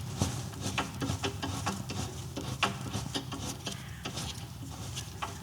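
Crash bar bolts being tightened with a hand wrench: a run of light, irregular clicks and ticks.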